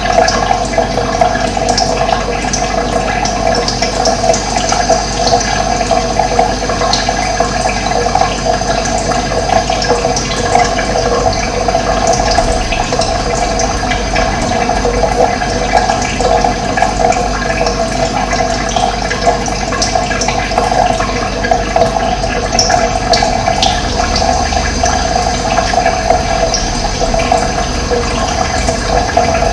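Running water flowing in a steady, unbroken rush, with a few faint short bird calls high above it.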